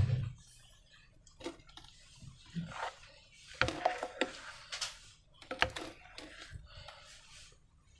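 Slime being worked by hand, making irregular sticky clicks and squelches. The loudest cluster comes in the middle, followed by a sharp click a little later.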